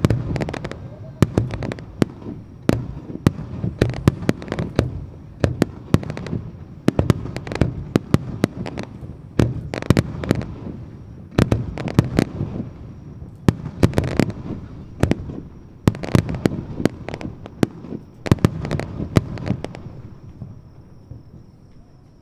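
Fireworks display: a rapid volley of aerial shell bursts, sharp bangs several a second over a continuous low rumble of echoing explosions, thinning out near the end.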